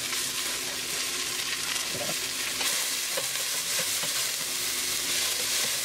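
Diced white onion sizzling in hot olive oil in a stainless steel pot, a steady hiss as the onions start to sweat down.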